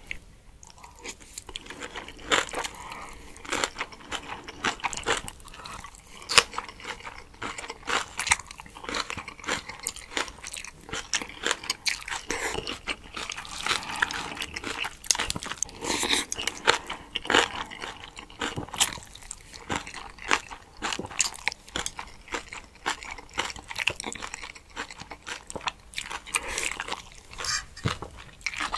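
Mouth sounds of eating spicy cold noodles: chewing and biting, with many small wet clicks and smacks.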